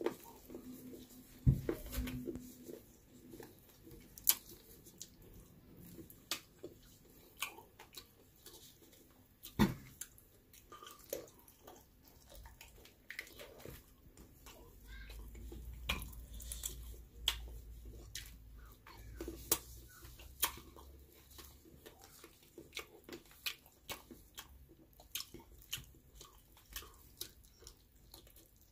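Close-up eating sounds of spicy chicken feet being chewed and handled, with many short sharp clicks and mouth noises scattered throughout. A low rumble comes in for a few seconds around the middle.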